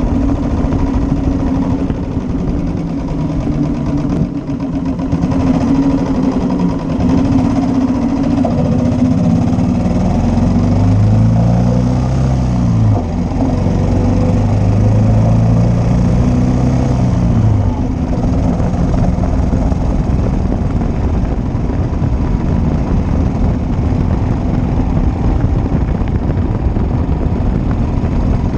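1941 Matchless G3L's single-cylinder engine running steadily while riding. About ten seconds in, the engine note climbs, drops sharply at a gear change, then climbs again before settling.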